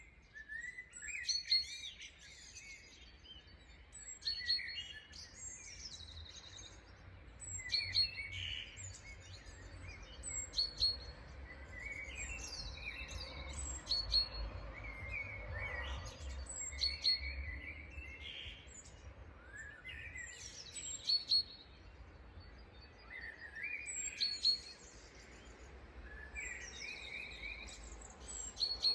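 Several birds chirping and calling in a morning chorus, with quick overlapping whistled notes and high chirps, over a faint low rumble.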